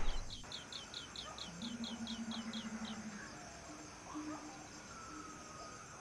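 A bird calling a rapid, even series of short high descending chirps, about four a second, which stop about three seconds in. A faint low hum sounds under them for a second or so.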